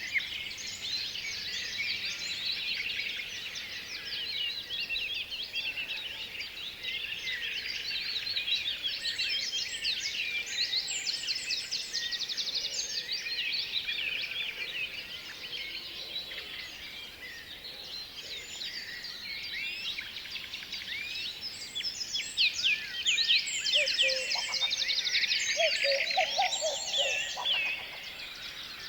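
Many small birds chirping and twittering at once, a dense overlapping chorus of quick calls that gets louder in the last few seconds.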